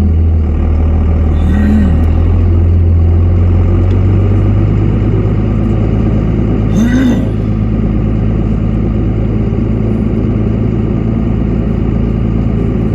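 Truck engine running steadily with a deep, even hum. Two short rising-and-falling cries cut in, about two seconds in and again about seven seconds in.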